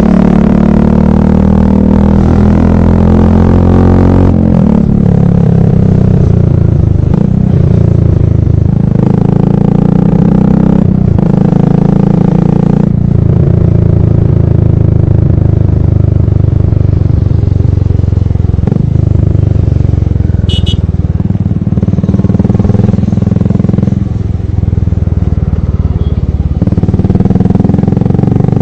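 Royal Enfield Classic motorcycle's single-cylinder engine running loud through its exhaust, the engine speed rising and falling several times.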